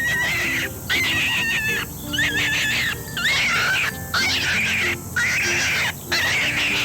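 A series of about seven short, high-pitched animal squeals, each bending in pitch with brief gaps between them, played as the rabbit's sound over light children's background music.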